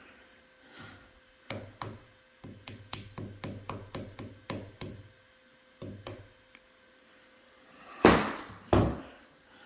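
Small hammer tapping a plug into a bolt hole in a stair railing: a quick run of light taps, about three or four a second, then two much louder blows near the end.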